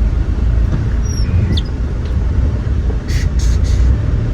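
Steady low rumble of a vehicle's engine and road noise heard while riding along, with a couple of faint brief squeaks about a second in and a short hiss about three seconds in.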